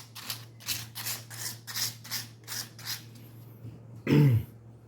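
Sandpaper scrubbing back and forth on the metal wire mesh of a mosquito racket, about two to three scratchy strokes a second, dying away after about three seconds. A short voice sound follows near the end.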